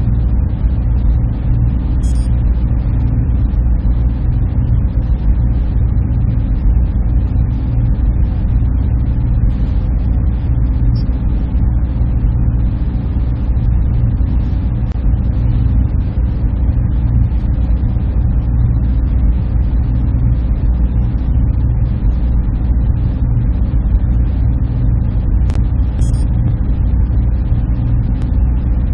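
Server room ambience: the steady, unchanging drone of the machines' fans and cooling, heaviest in a deep low hum. Two faint, brief ticks, one early and one near the end.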